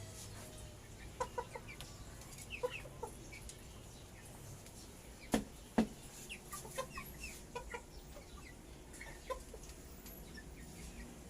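Chickens clucking softly in short scattered calls, with two sharp knocks in quick succession about halfway through.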